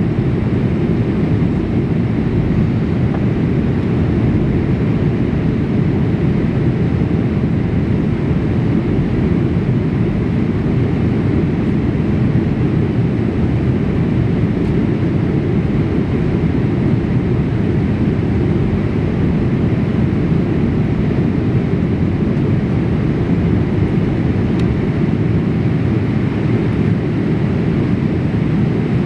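Steady in-flight cabin noise inside a Boeing 787-8 airliner: an even rumble of engines and airflow with no change in level.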